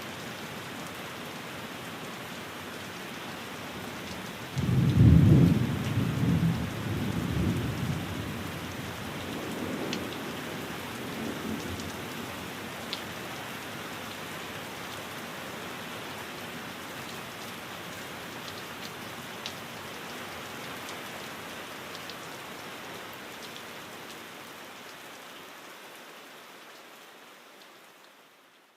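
Steady rain with a loud roll of thunder about five seconds in, rumbling on in swells for several seconds before dying away under the rain. Near the end the rain fades out to silence.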